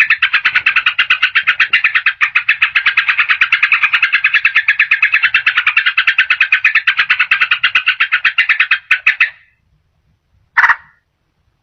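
Yellow-vented bulbul (trucukan) singing a rapid chattering run of short notes, about eight a second, used as a lure call. The run stops about nine seconds in, and one short burst of notes follows near the end.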